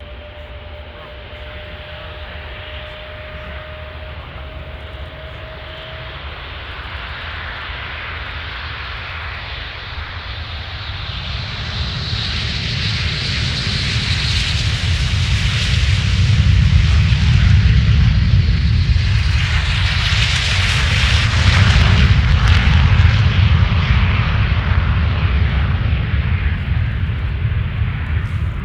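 Jet engines of a formation of L-15 advanced jet trainers flying past, a broad rushing roar with deep rumble. It grows steadily louder for about two-thirds of the time, then stays loud with its pitch shifting as the jets pass.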